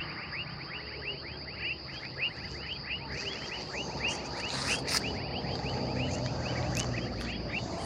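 An outdoor animal chorus: short chirps falling in pitch, repeated several times a second, over a steady high-pitched drone.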